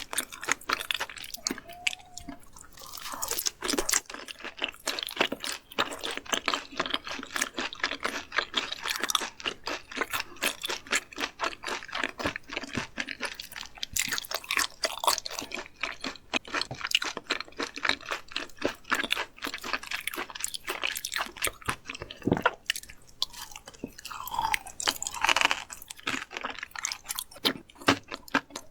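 Chewing of raw fish slices, yellow stingray and sashimi, with many quick, wet, crunchy clicks.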